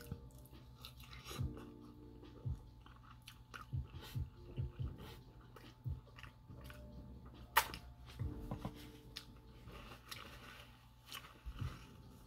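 Close-miked chewing of food, with small wet mouth clicks and smacks at an irregular pace. A single sharp click about seven and a half seconds in is the loudest sound.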